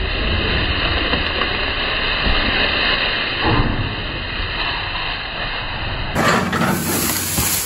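Loud, steady machine noise from heavy land-clearing equipment running, changing abruptly about six seconds in.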